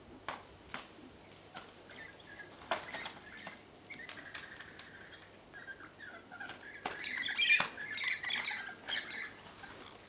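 Birds at a feeding spot: a scatter of sharp clicks and wing flutters, with calls that grow into a busy burst of rapid notes in the second half.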